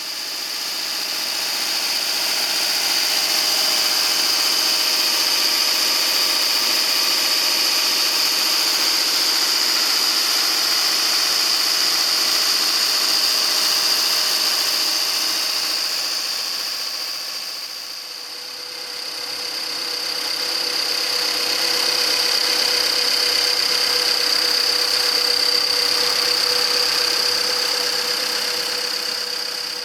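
Subaru Impreza 2.0i-S's 2.0-litre flat-four engine running steadily, with a steady high-pitched whine over it. It eases off briefly about two-thirds of the way through, then comes back up.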